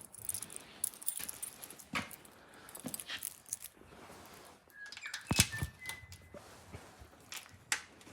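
Scattered light clicks, knocks and rattles of small objects being handled while keys are searched for, with a louder cluster of clicks a little past halfway and a short high whine just after it.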